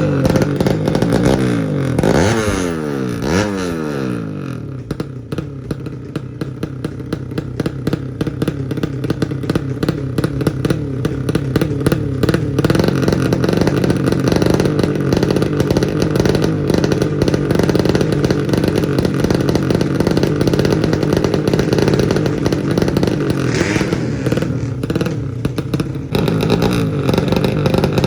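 Racing underbone (bebek) motorcycle engine revving, its pitch sweeping sharply up and down a few times about two seconds in, then running steadily at high revs.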